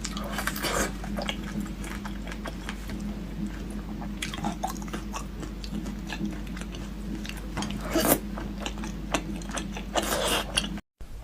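Close-up chewing and biting on food: many short wet clicks and crunches, with louder bites about half a second in, about 8 seconds in and about 10 seconds in. A steady low hum runs underneath, and the sound cuts out briefly near the end.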